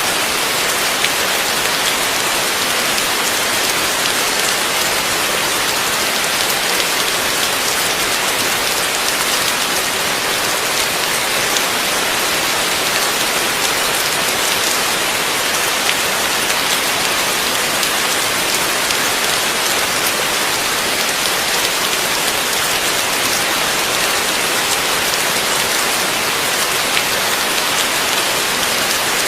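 Heavy rain falling steadily and evenly, with a dense patter of drops on a surface and no thunder.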